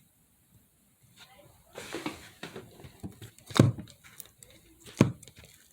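Hands kneading and mixing slime: crinkly, sticky squishing with sharp pops of trapped air, the two loudest about three and a half and five seconds in.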